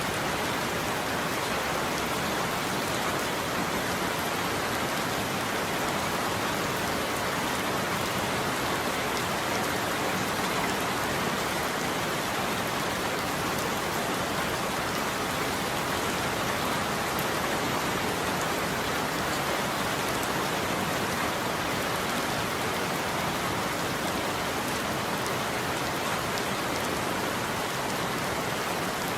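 Heavy rain falling steadily, an even hiss of many drops that holds at one level throughout.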